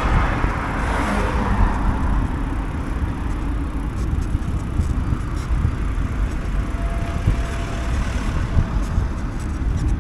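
Road traffic noise: cars running past on a street, a steady rushing sound with a deep rumble underneath.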